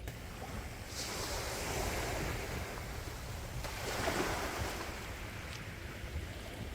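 Sea waves washing on the shore, with a steady low rumble of wind. A wave swells in about a second in and breaks loudest a little past the middle.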